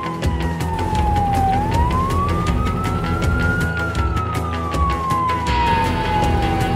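Cartoon police car siren wailing slowly, its pitch sliding down and back up in long cycles of about five seconds. Background music with a steady beat plays under it.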